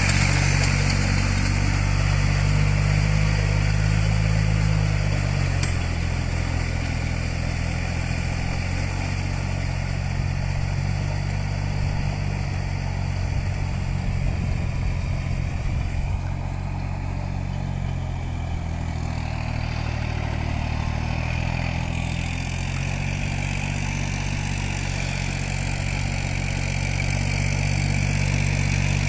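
New Holland 47 HP tractor's diesel engine running steadily, its note dipping and rising slightly a couple of times.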